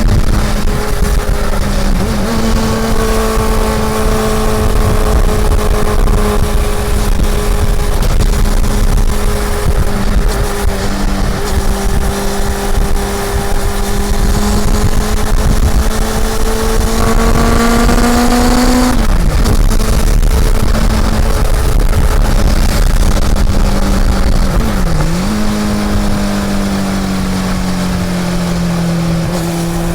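Honda CB400 Super Four's inline-four engine running under way at a steady high note. The pitch climbs gradually, then drops sharply about nineteen seconds in. It dips and recovers briefly around twenty-five seconds and then holds steady.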